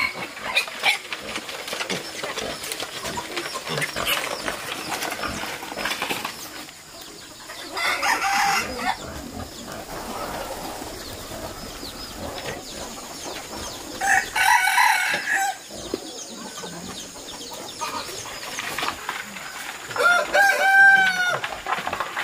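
Roosters crowing three times, each crow lasting about a second, with scattered small clicks and rustling between the crows.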